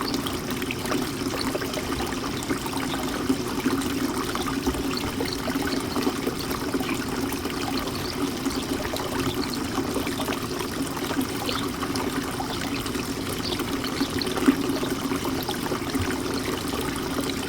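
Bird bath fountain water trickling and splashing steadily, with a couple of brief louder splashes.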